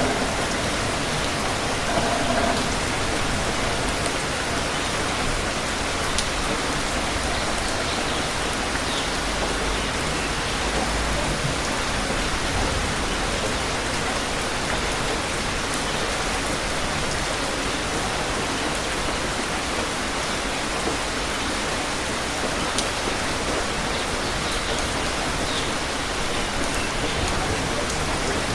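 Steady rain falling, an even, dense hiss with a few faint drop ticks scattered through it.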